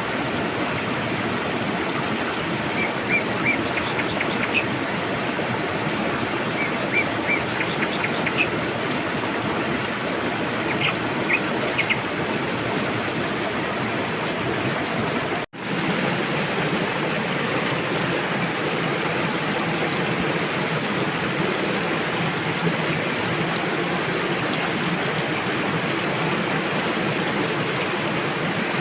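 A river rushing steadily, with a bird giving short runs of high chirps several times in the first half. The whole sound cuts out for an instant about halfway through.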